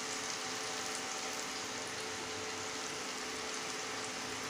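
Okra in oil on a hot cast-iron tawa sizzling softly and steadily, cooking on the pan's retained heat with the induction switched off. A faint steady hum runs underneath.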